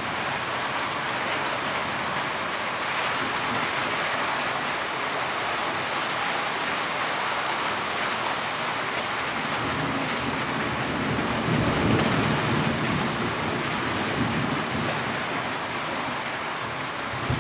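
Steady heavy rain falling. A low rumble of thunder swells and fades about two-thirds of the way through.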